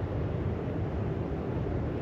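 Steady low wind rumble on the microphone, with no distinct calls or events.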